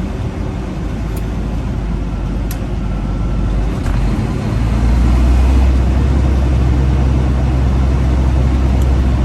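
Freightliner Classic XL's diesel engine heard from inside the cab, pulling the rig along; its low drone grows louder about halfway through as the truck accelerates.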